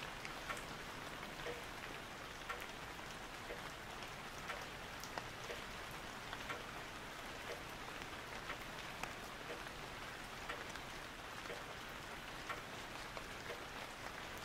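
Steady rain-like patter: an even hiss with light drops ticking irregularly throughout.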